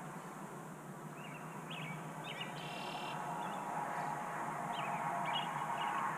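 Birds calling at dawn: short, high chirps scattered through, over a steady outdoor background hum that grows slightly louder toward the end.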